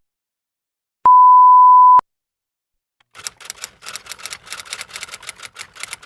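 A loud electronic beep: one steady, high tone held for about a second. About a second later comes a run of quick, irregular, quieter clicks, roughly seven a second.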